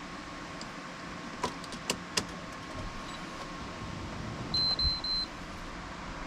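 Electronic beep, one high tone broken into three quick pips, a few seconds after three sharp clicks, over a faint steady hum.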